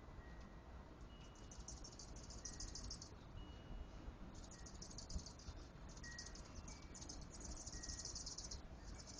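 Insects trilling in rapid high-pitched pulse trains, each lasting a second or two with short pauses between, over faint outdoor background noise. A few faint, brief ringing tones sound among the trills.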